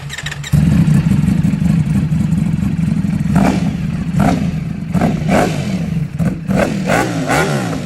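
Ducati Panigale sport bike engine running, then revved in a series of quick throttle blips, each a short rising burst, about once a second from about three seconds in.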